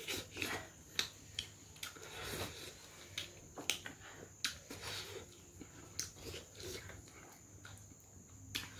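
Close-up mukbang eating sounds: a person chewing a mouthful of rice and pork, with wet lip smacks and mouth clicks at irregular intervals.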